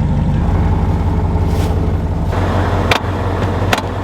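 A vehicle engine running steadily, with two sharp clicks near the end.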